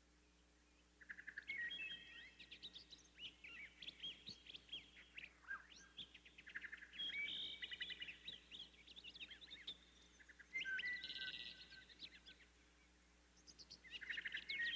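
A songbird singing in quick, chirping and trilling phrases, with a pause of about two seconds near the end before it starts up again.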